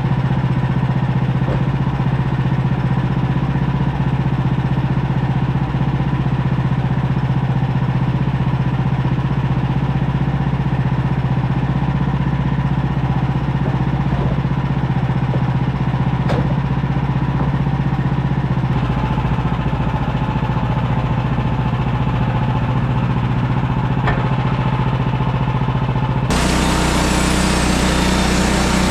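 Woodland Mills HM130MAX band sawmill's gas engine running steadily. Near the end the sound changes abruptly to a brighter, differently pitched engine note.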